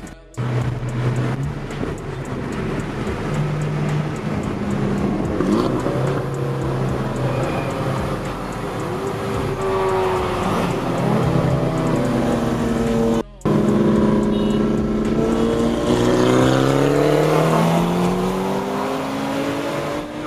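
Tuned BMW 335i's twin-turbo N54 inline-six heard from inside the cabin at speed, its pitch stepping and gliding up and down as it pulls through the gears, with a long rising pull near the end. The sound cuts out briefly twice.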